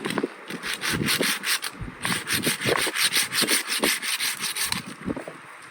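Quick rasping strokes on wood, about six a second, in two runs with a short break about two seconds in.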